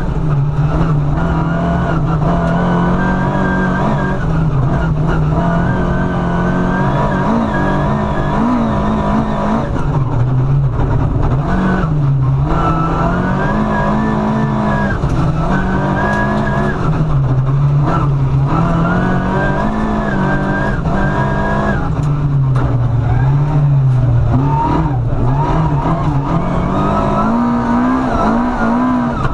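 Rally car engine heard from inside the cabin, revving hard at full stage pace, its pitch climbing and falling again and again, with several brief cuts in the sound as the driver lifts off or changes gear.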